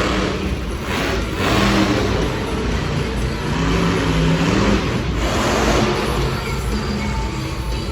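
Monster truck engines revving in an arena, the pitch rising and falling, with surges of louder noise a little after the start and again about five seconds in.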